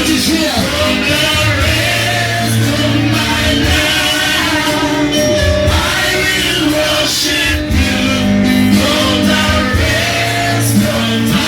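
Gospel praise music: singing voices over steady instrumental backing.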